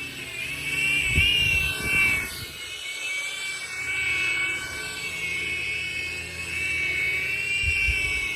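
Toy RC helicopter drone's small electric motors and rotors whining at a high pitch, the pitch wavering slightly as it flies. A few low thumps come through about a second in, again around two seconds, and near the end.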